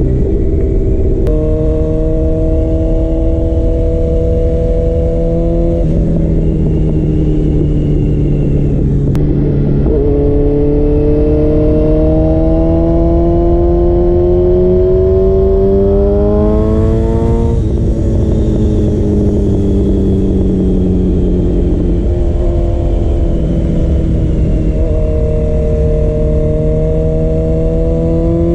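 Honda CB1000R's inline-four, breathing through aftermarket headers and a Leo Vince exhaust, being ridden through the gears: the engine note steps and climbs with throttle and shifts, rises steadily for several seconds, drops sharply about two-thirds through, and climbs again near the end, over a steady rush of noise.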